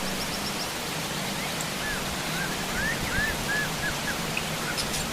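Steady heavy rain hissing, with a wild bird calling a run of about eight short, arched whistled notes, starting about a second and a half in. A quick burst of high chirps comes at the start.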